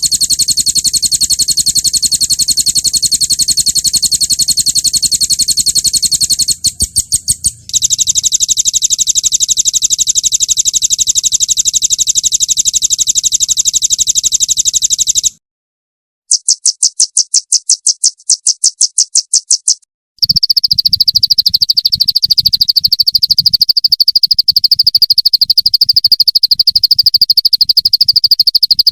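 Songbird rapid-fire trills ('roll tembak' masteran): fast, evenly pulsed high-pitched trills in four stretches, with short breaks about 15 and 20 seconds in. The last stretch is a lower, steadier trill.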